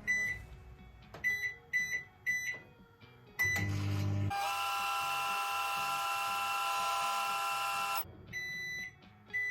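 Microwave oven being set and run: a string of short keypad beeps, then a steady whining hum for about four seconds that cuts off suddenly, followed by longer beeps as the cycle ends.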